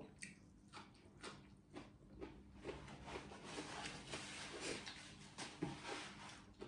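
A person chewing a mouthful of fresh greens, with soft, faint crunches and wet mouth clicks about twice a second.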